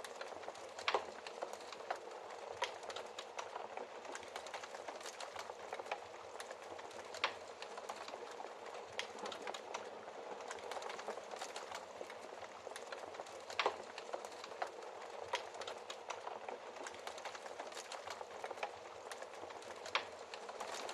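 Wood fire crackling in a fireplace: a steady soft hiss scattered with small crackles, and a few louder pops several seconds apart.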